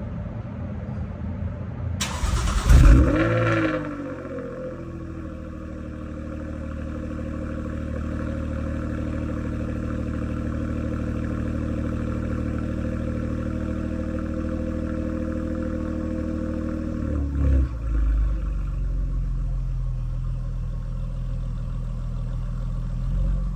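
Jaguar F-Type's supercharged 3.0 V6 starting about two seconds in with a loud rev flare through the exhaust, then settling into a steady high idle. Near the end the revs drop with a couple of thumps, and it settles to a lower, deeper idle.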